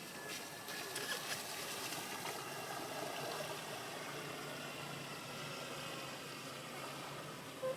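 Twin battery-powered motors of a 1/10-scale Riva Rama RC model boat running steadily at low throttle, about a quarter power, with a steady thin whine over a noisy wash.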